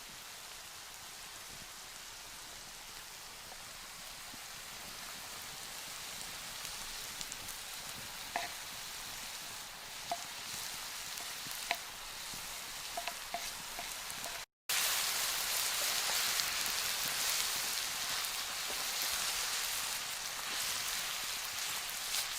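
Food frying in a pan, a steady sizzle with a few small pops. After a cut partway through, the sizzle is louder.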